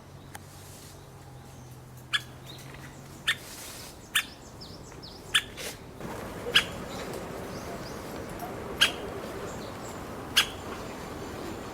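White-backed woodpecker giving short, sharp single call notes, about eight spaced irregularly a second or more apart.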